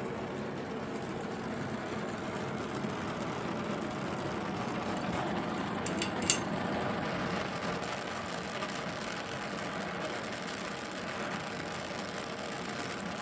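Gas torch with a brazing tip burning steadily, an even rushing noise from the flame. A single sharp metallic tink about six seconds in.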